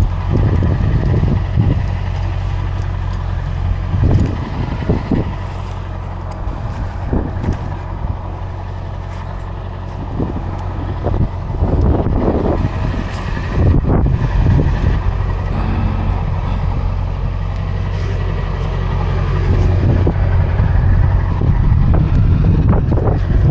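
A truck driving, its engine running with a steady low drone, with irregular knocks and rattles over it.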